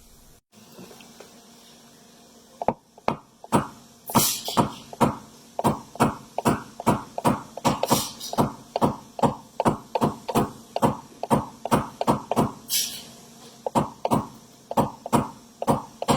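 Rapid, even taps of a knockdown tool on a car door panel, about two to three a second, starting about three seconds in: tapping down a small high spot to blend out a glue-pulled dent.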